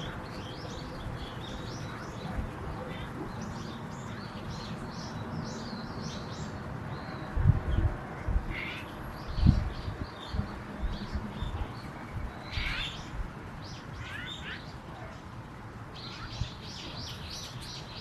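Small birds chirping repeatedly in short, high calls, with a few low thumps about halfway through.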